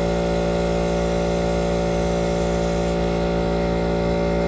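Air compressor powering a paint spray gun, running with a steady motor hum and constant hiss while paint is being sprayed.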